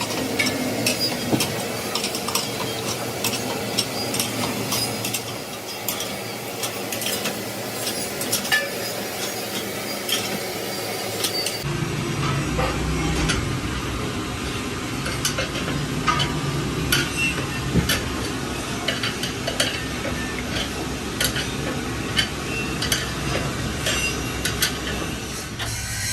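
Irregular metallic clinks, taps and scraping from hand tools at work on a tractor tire repair. About halfway through, a steady low hum joins them.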